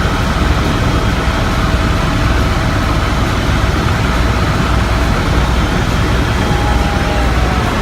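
Helicopter in flight heard from inside the cabin: a loud, steady rotor and engine drone with a low throb.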